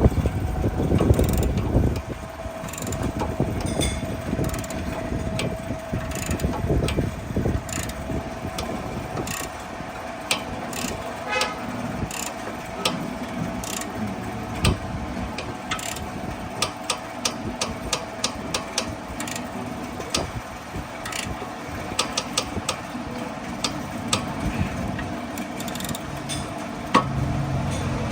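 Scattered sharp metallic clicks and clinks of tools working on wheel bolts, over a steady low hum, with a louder low rumble in the first two seconds.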